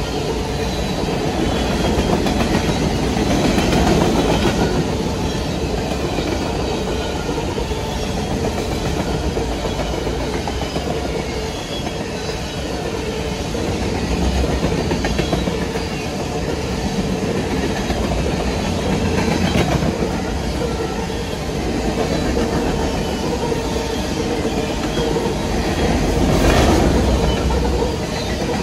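Freight cars of a Norfolk Southern train rolling past close by: a continuous rumble and rattle of steel wheels on rail, with clickety-clack over the rail joints. It swells about four seconds in and again near the end.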